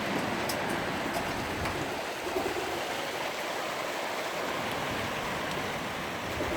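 Heavy rain and hail coming down: a steady hiss of the downpour with scattered sharp ticks of hailstones striking.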